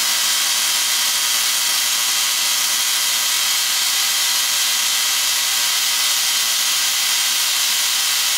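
Spark-gap Tesla coil, powered by a 15 kV neon sign transformer, running continuously with its primary on tap 13 during tuning: a loud, steady hissing buzz from the firing spark gap.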